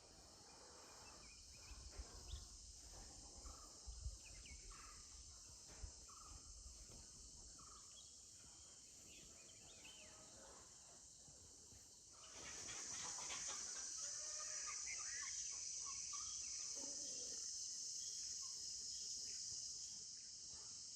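Night chorus of crickets and other insects, a steady high-pitched trilling that swells noticeably louder about halfway through, with scattered short chirping calls over it. A few low thumps in the first several seconds.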